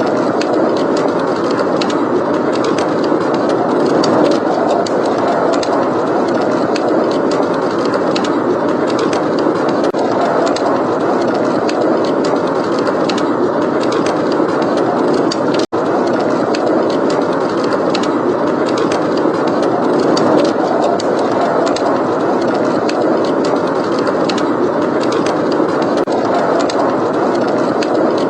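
Steady blizzard wind with a wood fire crackling in a fireplace, frequent small pops and crackles over the wind. The sound cuts out for an instant about halfway through.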